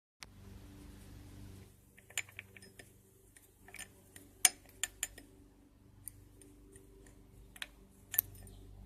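Scattered light metallic clicks and clinks of tools and drive shaft parts being handled, the sharpest click about four and a half seconds in, over a faint low steady hum.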